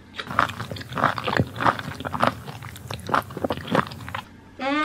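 Mouth sounds of someone eating baby octopus, ASMR style: many quick, irregular wet smacks and clicks of chewy chewing.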